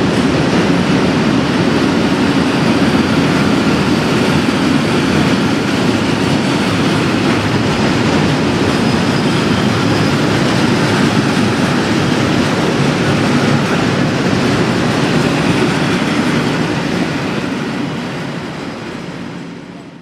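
A train running past on the rails, a steady loud rumble of wheels and track noise that fades away over the last couple of seconds.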